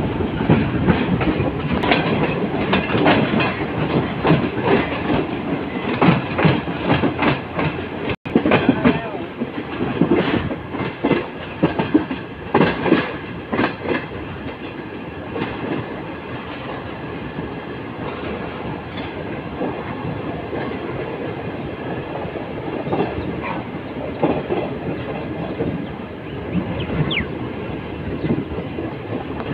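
Passenger train running, heard from an open coach doorway: the wheels clatter over rail joints above a steady rumble. The clatter is busiest in the first half and settles into a smoother run later, with one very brief dropout about eight seconds in.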